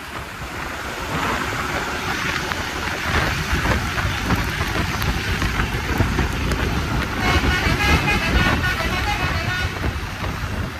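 Bus running on a wet road, with steady low rumble and rain noise. From about seven to nine seconds in, a vehicle horn sounds in a run of short notes.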